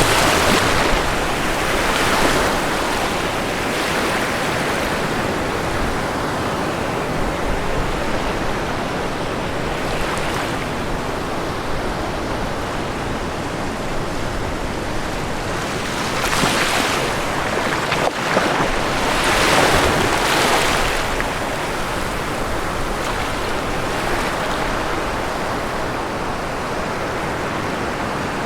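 Ocean surf washing onto a shore in a steady hiss, with louder swells of breaking waves about a second in and again about two-thirds of the way through.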